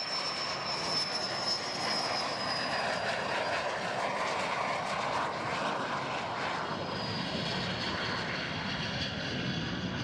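Military jet aircraft flying past: a steady roar with a high whine that falls slightly in pitch over the first few seconds.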